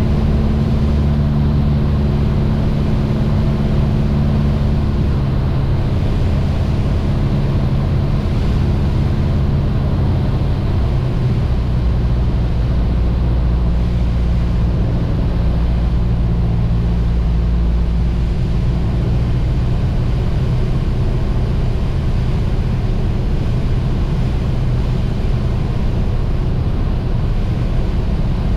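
Mooney M20J's four-cylinder Lycoming engine and propeller droning steadily; about eleven seconds in, the drone settles to a lower pitch.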